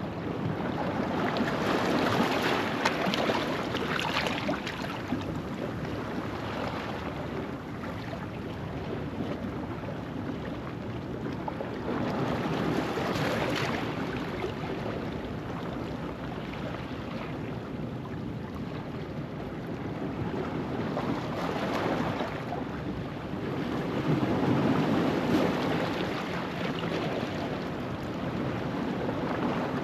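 Ocean waves washing over a rocky shoreline at low tide: a steady wash of surf that swells louder several times as waves break and drains back between them.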